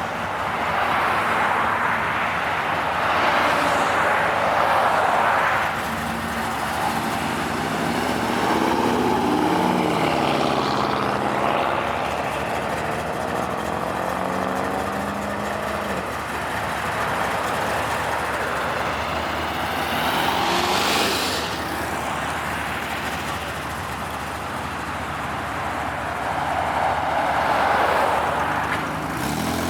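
Cars driving past one after another. Their engines rise in pitch as they accelerate away, with one strong rev about two-thirds of the way through.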